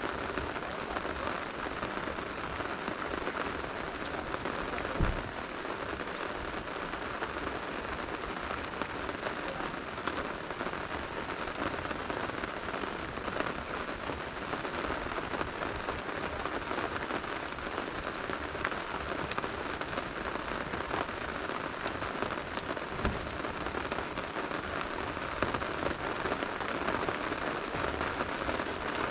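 Steady rain falling, with faint scattered crackles from a wood campfire and a single low thump about five seconds in.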